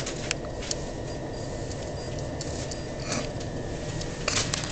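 Inside an Electrostar electric train running along: a steady low rumble with scattered sharp clicks and knocks, a cluster of louder clicks near the end.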